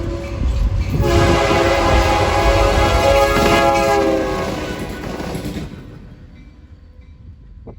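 Diesel locomotive air horn sounding one long blast, a chord of several tones, starting about a second in, over the rumble of a passing train. The train noise fades away near the end.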